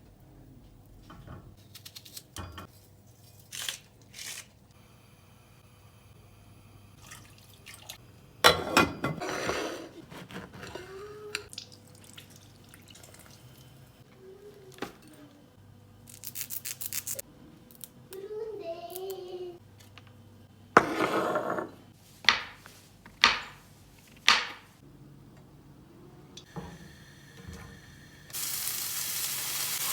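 Kitchen food-prep sounds: water running at a sink in short bursts, utensils and dishes clattering and knocking, and near the end a steady sizzle as food starts frying in a pan.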